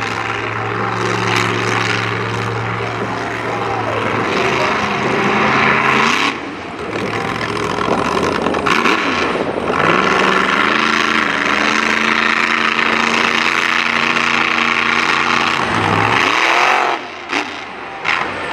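Monster truck engine revving hard, its pitch rising and falling as the driver works the throttle. The engine note drops off sharply about six seconds in and again near the end before climbing back, with a long stretch at high revs in between.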